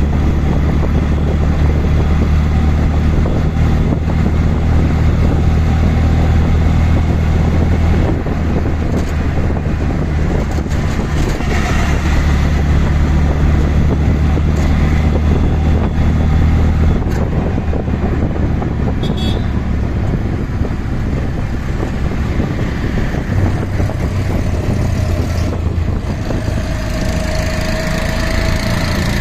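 Auto rickshaw engine running during a ride in traffic, a low steady hum whose note changes about 8 and 17 seconds in, with a few short higher tones from the street.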